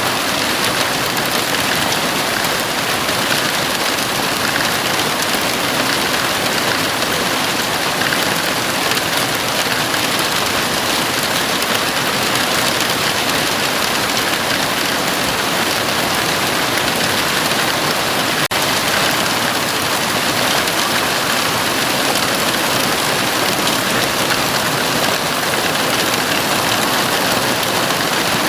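Heavy rain falling steadily on a house roof: a dense, even hiss of drops with no breaks.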